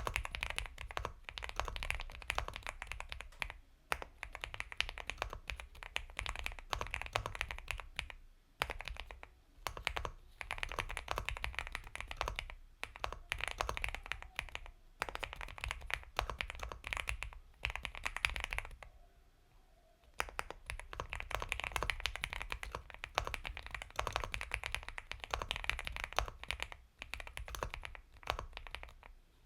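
Steady typing on a mechanical keyboard, an Epomaker x Feker Galaxy 80 with Gateron Milky Yellow Pro linear switches: a fast run of soft keystrokes in bursts, with short pauses between words and a longer pause about two-thirds of the way through.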